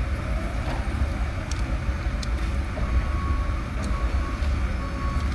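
A steady low rumble that rises and falls in loudness, with a few faint ticks.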